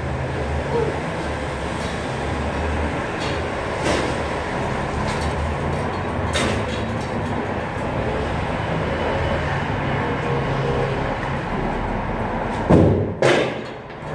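Steady rumble of a vehicle on the move, with a few light clicks and two louder thumps near the end.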